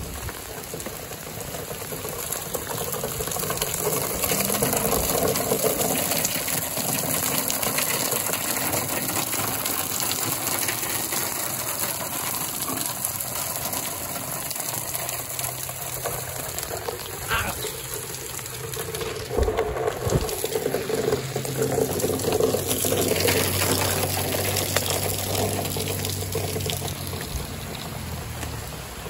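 Rain pouring down on asphalt and grass, with water gushing out of a drain pipe and splashing onto the pavement: a steady, dense rush of water.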